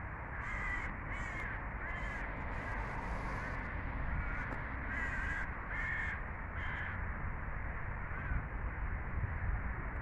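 A bird giving a quick series of short, harsh calls during the first seven seconds, with one fainter call about eight seconds in, over a steady low rumble.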